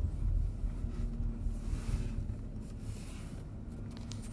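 Low, steady rumble of a car's idling engine heard from inside the cabin.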